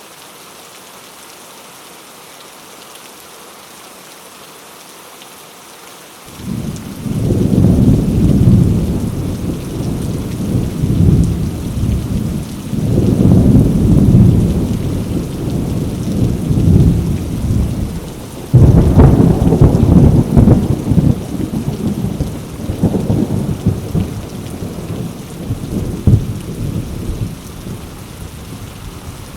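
Heavy rain hissing steadily on mango leaves. About six seconds in, thunder begins rumbling in rolling waves, with a sharp loud clap about two-thirds of the way through, then eases off toward the end.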